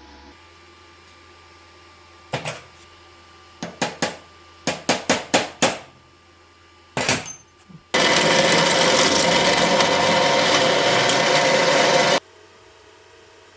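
Workshop tool work: a series of sharp knocks, a quick run of about six of them in the middle, then a power tool runs steadily for about four seconds, starting and stopping abruptly.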